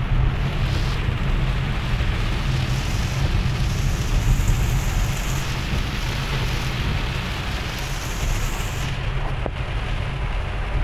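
Heavy rain falling on a car's roof and windshield, heard from inside the cabin, over a steady low rumble.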